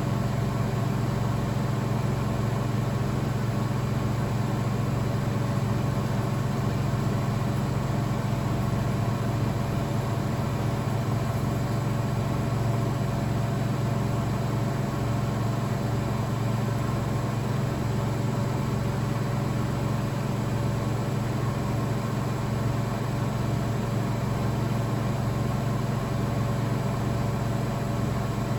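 Blomberg WAF 7442 SL front-loading washing machine running steadily: a constant low hum with a low pulsing beat about once a second beneath it.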